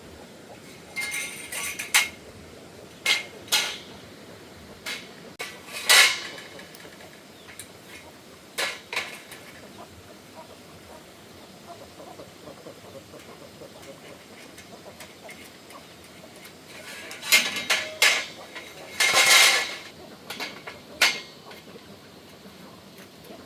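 Intermittent metal clanks and clattering, as steel pieces and tools are handled and set down, with a busier run of clatter about three quarters of the way through.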